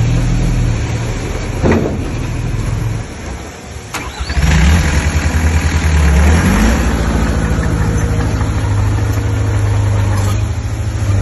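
Heavy earthmoving machine's diesel engine running. It drops low about three seconds in, picks up loudly about four seconds in, rises briefly in pitch around six seconds, then runs steadily.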